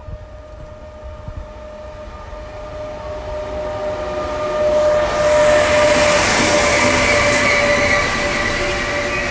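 Electric passenger train, led by an E.464 locomotive hauling coaches, approaching and passing close by on the platform track. Its rumble swells steadily and is loudest about five seconds in as the locomotive goes by. The coaches then keep rolling past with a steady whine.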